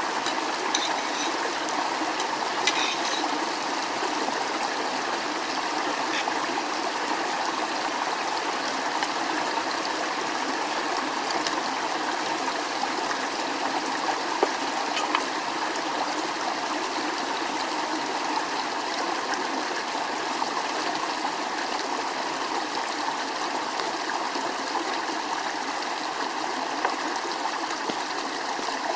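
Steady rush of a flowing stream, with a few small clicks now and then.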